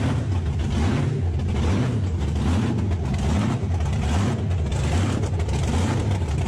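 Loud engine of the War Bird golf cart running steadily, its low note gently rising and falling.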